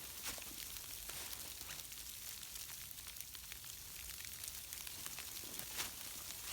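Freezing rain falling in a steady hiss, with scattered sharp ticks throughout.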